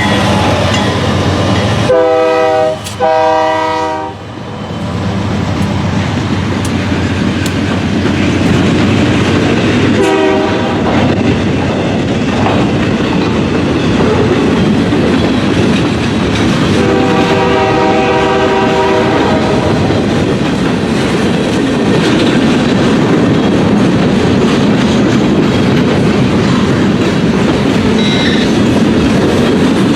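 Freight train's diesel locomotive sounding a horn of several notes: two long blasts, a short one, then a long one, the pattern of the grade-crossing signal. Under it, the steady rumble and clickety-clack of the train's wheels on the rails.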